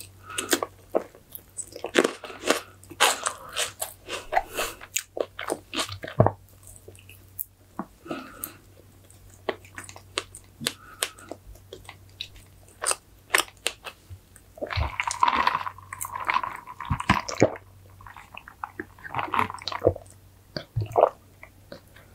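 Close-up eating sounds of a person chewing strawberry fresh cream cake: many short wet smacks and clicks of the mouth, with a denser run of sound about two-thirds of the way through.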